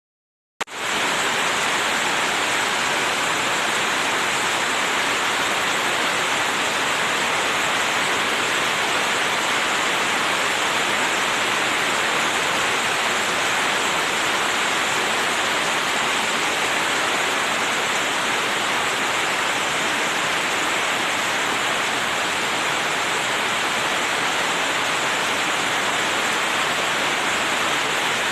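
Heavy rain pouring down in a steady, dense hiss. It cuts in abruptly about half a second in.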